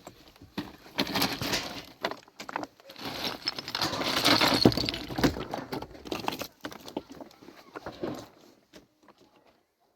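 Irregular knocks and scraping, a clatter of hard objects being handled or struck, loudest in the middle and dying away about eight seconds in.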